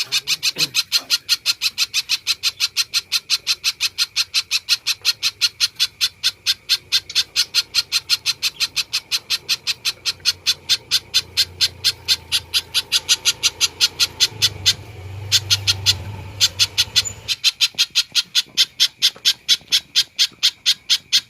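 Spiderhunter calling, a fast run of sharp, even notes repeated about four times a second, with one short break in the middle.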